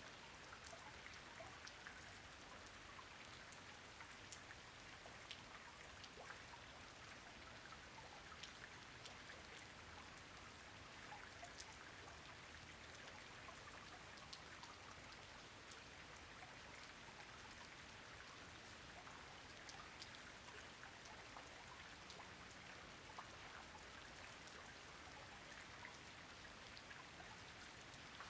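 Steady soft rain, with many separate drops heard as scattered faint ticks over an even hiss.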